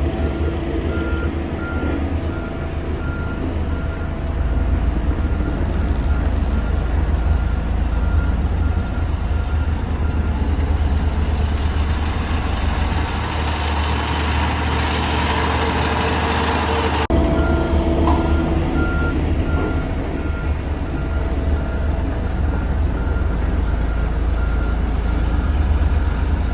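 Motor grader's heavy diesel engine running steadily, with a reversing alarm beeping at an even pace during the first few seconds and again from about two-thirds of the way through.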